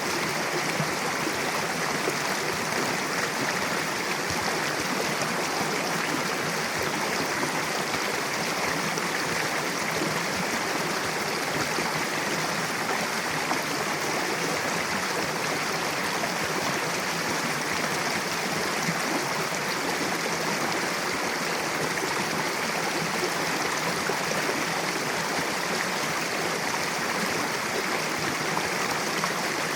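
Mountain river rushing steadily over rocks, an even sound of flowing water that does not change.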